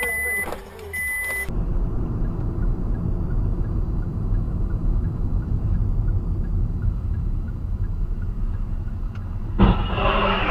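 Car driving, a steady low road-and-engine rumble, after a few short high beeps in the first second and a half. Near the end, a sudden loud noise cuts in.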